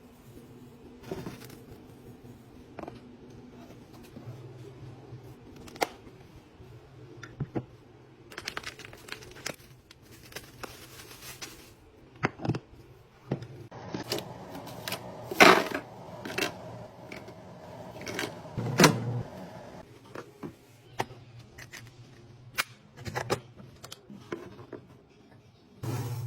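Scattered clicks, taps and knocks of containers and packaging being handled while restocking a kitchen, with a stretch of rustling a third of the way in and two sharper clacks past the middle.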